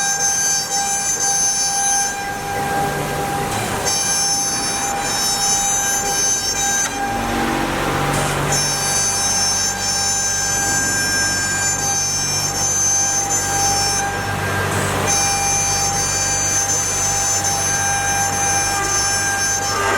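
A CNC wood router's 3.2 kW water-cooled spindle runs and cuts MDF with a steady high whine made of several tones. The highest tones drop out briefly three times and then return, with a low hum underneath.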